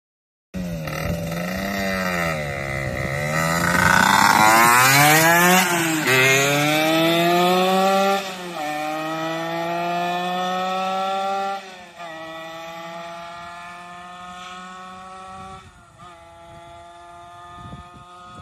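Honda NS-1's 50cc two-stroke single through a Yokota Racing expansion chamber: revved a few times, then accelerating hard through the gears. The pitch climbs steadily in each gear and drops at each of several upshifts, and the sound fades as the bike pulls away.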